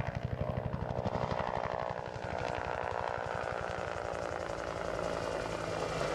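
UH-1 Iroquois "Huey" helicopter's rotor beating rapidly overhead. The pulsing eases after about two seconds into a steadier engine drone.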